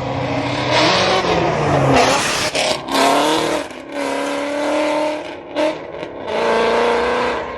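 Ford Mustang engine revved hard and held high, with tyres squealing and spinning, as in a burnout. The revs climb early on and then drop off briefly several times before climbing again.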